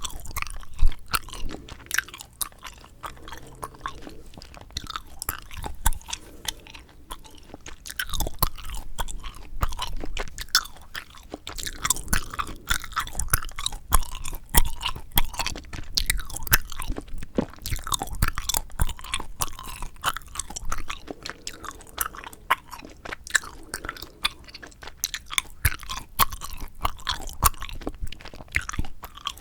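Bubble gum being chewed close to the microphone: a dense, irregular stream of small mouth clicks and smacks.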